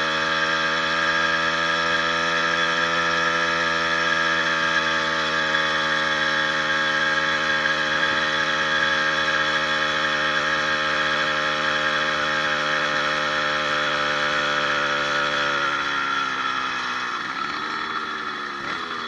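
80cc two-stroke motorized bicycle engine pulling hard at steady high revs up a hill, its pitch sagging slowly under the load. About sixteen seconds in the revs fall away and the engine note drops and fades.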